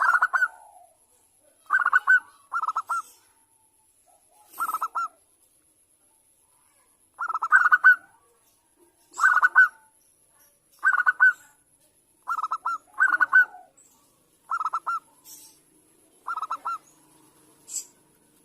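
Zebra dove (Bangkok perkutut) cooing: about eleven short phrases, each a quick run of coo notes, repeated every second or two.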